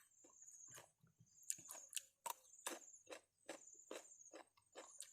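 Faint chewing and crunching of raw vegetables and salad close to the microphone, an irregular run of crisp crunches several times a second.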